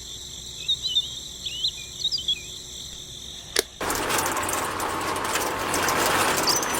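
Birds chirping over a steady high insect-like drone. A sharp click comes a little after three and a half seconds, then a louder, even rushing noise starts abruptly.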